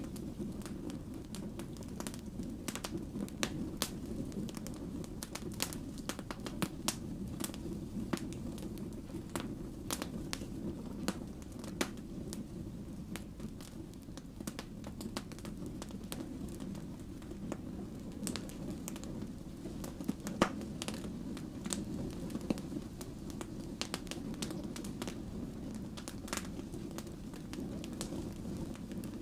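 Burning firewood crackling: a steady low roar of flames with frequent sharp pops and snaps, one louder pop about twenty seconds in.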